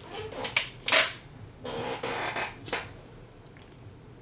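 A few sharp clicks and taps, then a short rustling hiss and one more click: small objects being handled on a tabletop.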